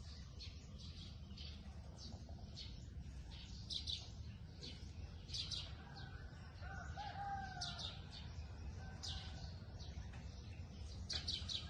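Faint birds chirping: short high chirps repeat every half second to a second, with a longer wavering call a little past the middle, over a low steady background rumble.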